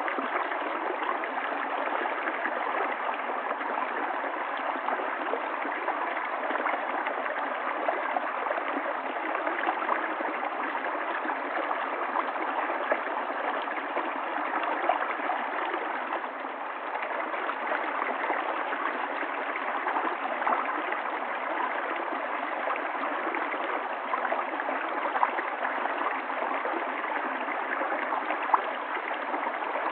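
Stream of water flowing down a valley, a steady rushing and gurgling.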